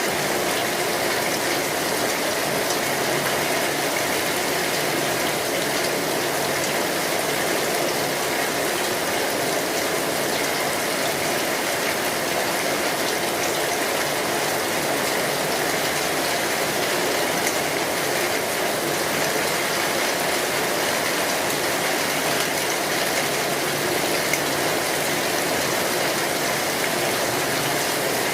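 Steady, dense rain drumming on a metal roof, with small crackles from a wood fire.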